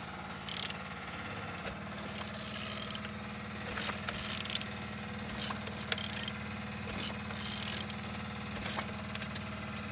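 Ratchet wrench clicking in short irregular spells as a Renault K9K 1.5 dCi diesel engine is turned over by hand; the engine turns freely. A steady low hum runs underneath.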